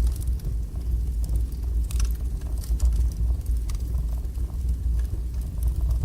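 Fire burning in a fireplace: a steady low rumble of the flames with scattered crackles and pops.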